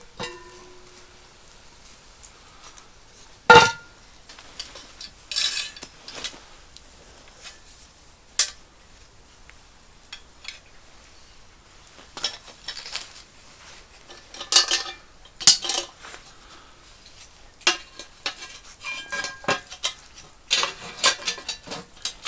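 Metal cookware and utensils clinking and knocking against pots and pans, with one loud ringing metallic knock about three and a half seconds in and a busier run of clinks in the second half.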